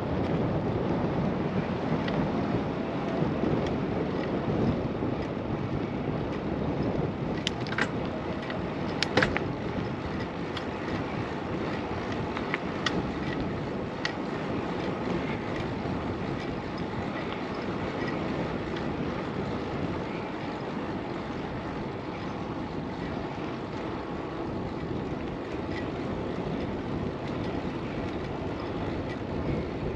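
Steady rush of wind on a windscreened action-camera microphone, with road noise from a bicycle being ridden, and a few sharp clicks scattered through the first half.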